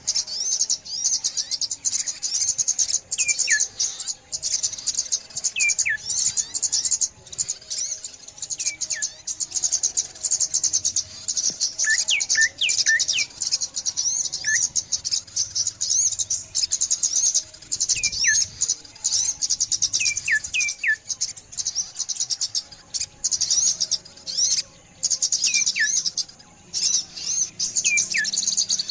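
Dawn chorus of many small songbirds, sunbirds among them: a dense, high-pitched twittering throughout, with short falling whistled calls every second or two.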